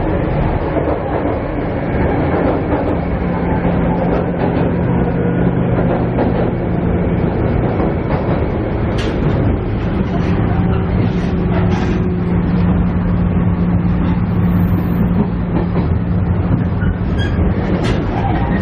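Inside a KiHa E130 diesel railcar under way: a steady diesel engine hum over the rumble of wheels on the rails, with a few scattered clicks from the track. The engine hum fades for a few seconds midway and then comes back.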